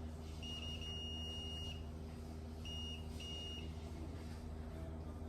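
Multimeter continuity beeper sounding as the probes touch capacitor pads on a key's circuit board: one long high beep of about a second, then two short ones, over a low mains hum. The beep signals a near short circuit of a few tenths of an ohm.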